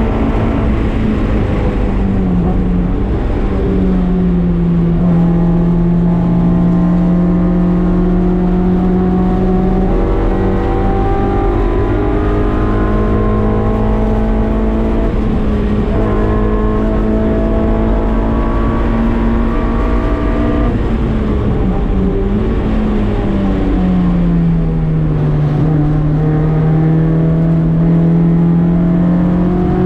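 K24-swapped Mazda Miata's 2.4-litre Honda four-cylinder running hard at high revs. Its pitch holds high, then dips and climbs back several times, with the longest dip about three-quarters of the way through.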